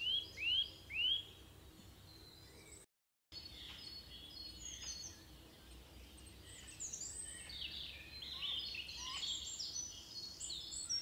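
Birds singing: three quick rising notes right at the start, then a scatter of high chirps and short trills, with a brief total break in the sound about three seconds in.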